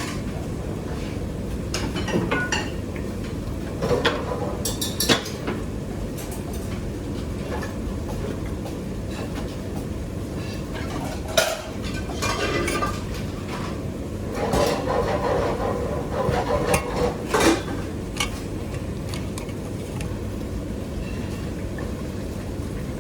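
Kitchen utensils and cookware clinking and knocking now and then, busiest a few seconds past the middle, over a steady low rumble.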